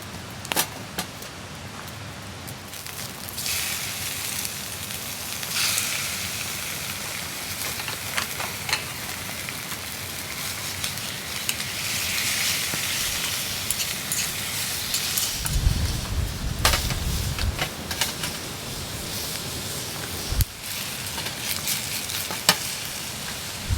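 Food sizzling in a pan over a wood campfire, a steady frying hiss with scattered sharp crackles and clicks. About two-thirds of the way through there is a low rumble lasting a couple of seconds.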